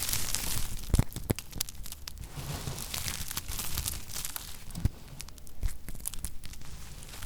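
Knife cutting through lacquered soap: a run of dry crunching and crackling, with a few sharper snaps.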